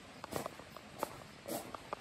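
Footsteps on a path, irregular short steps over a faint steady background hiss.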